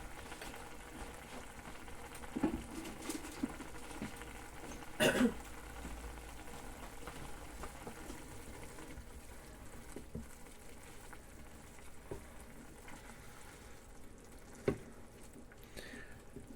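Diced onion frying in a pan with cooking caramel, a low steady sizzle, with a few sharp knocks scattered through it, the loudest about five seconds in.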